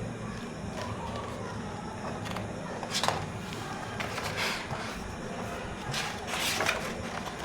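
Paper pages of a picture book being turned: short rustling swishes about three seconds in, again at about four and a half seconds, and near the end, over a steady low hum.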